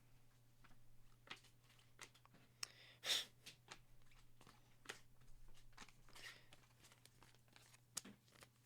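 Faint handling of trading-card packs and cards: small scattered clicks and rustles, with one brief louder tearing, crinkling sound about three seconds in as a pack wrapper is opened.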